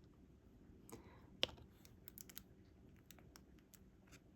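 Faint, scattered light clicks and taps from diamond-painting work, with one sharper knock about a second and a half in: the phone's tripod being bumped.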